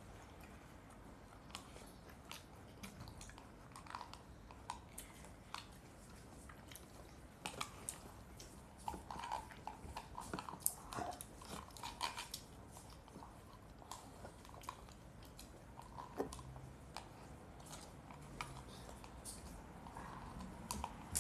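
Quiet eating sounds: children chewing food, with scattered light clicks and taps of chopsticks and plastic tableware.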